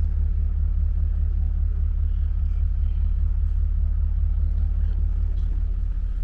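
Steady low engine hum and rumble from a diesel commuter train, with no change in level.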